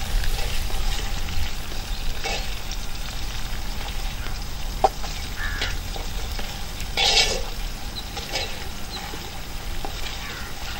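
Food sizzling in hot oil in a steel pot over an open wood fire while a ladle stirs it, with a few brief scrapes and a sharp click about five seconds in.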